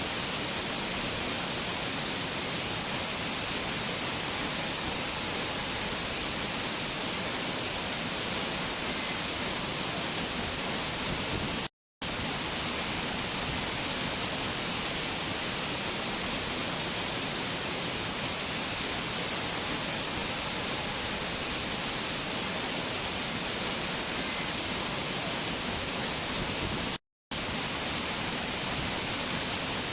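Waterfall cascading in a steady, unbroken rush of water. The sound cuts out completely for a split second twice, about twelve seconds in and again near the end.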